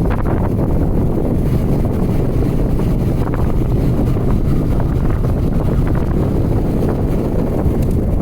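Wind buffeting the microphone on a moving motorcycle, a steady low rumble with the bike's engine running underneath.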